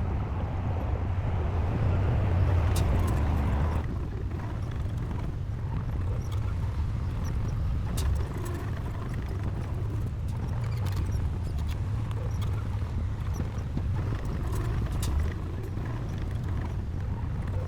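Komatsu D60 bulldozer's diesel engine working, with scattered clanks from its steel tracks. The engine is louder and working harder for the first four seconds, then eases off suddenly and runs on more steadily.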